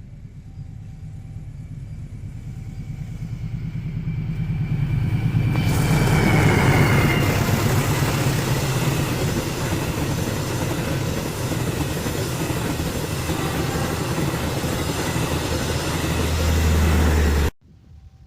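Indonesian KAI CC206 diesel-electric locomotive and its passenger coaches passing at speed. A low rumble grows as the train approaches, then about five seconds in the loud rush and clatter of the passing train takes over and runs steadily. It cuts off abruptly near the end.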